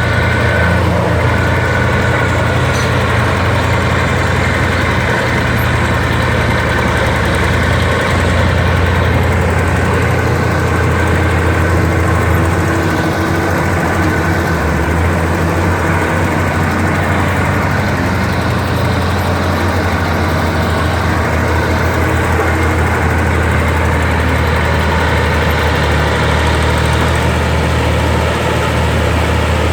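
Komatsu D60P bulldozer's diesel engine running steadily with a loud, deep drone.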